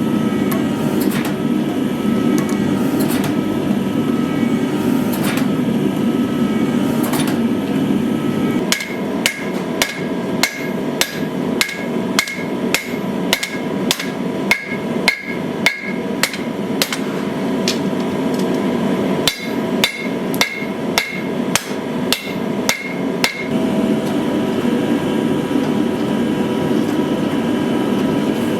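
Hand hammer striking hot knife steel on an anvil: a run of ringing blows, about two a second, with a short pause midway. A forge keeps up a steady rushing noise under the hammering and alone before and after it.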